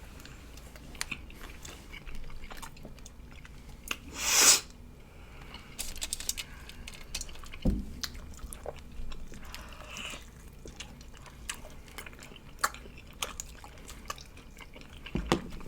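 Close-up chewing and biting of barbecue ribs, with many small wet mouth clicks and smacks. A short, loud rush of noise comes about four seconds in, and a low thump a little before eight seconds.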